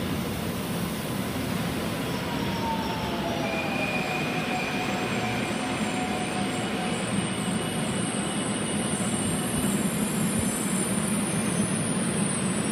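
Passenger train cars rolling past close by: a steady rumble of wheels on rail. Thin metallic squeals ride over it: one falls in pitch a couple of seconds in, a higher one follows briefly, and very high faint squeals run through the second half.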